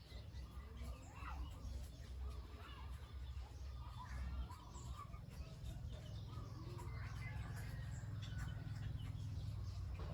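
Scattered bird calls over a steady low rumble.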